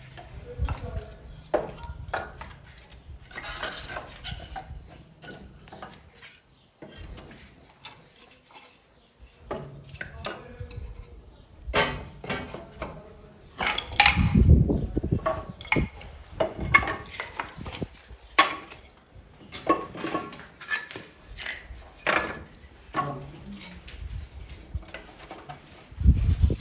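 Pieces of firewood knocking and clattering against the cast-iron firebox of a wood-burning fireplace insert as they are stacked inside, with sharp metallic clinks. A louder low rumble comes about halfway through.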